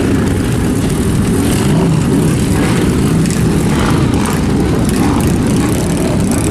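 A loud, steady, low engine drone with no clear change.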